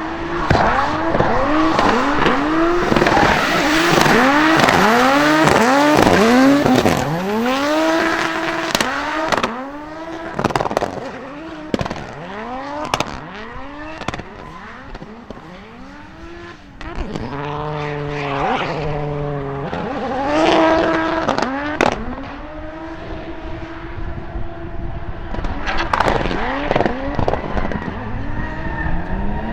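Drift cars' engines revving hard, the revs rising and falling over and over as the throttle is worked through the slides, with tyre squeal underneath. For a stretch near the middle an engine holds a steadier note.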